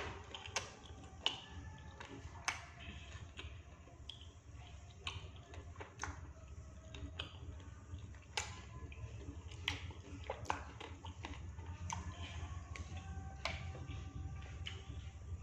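Eating sounds: a person chewing batagor, with scattered sharp clicks over a steady low hum.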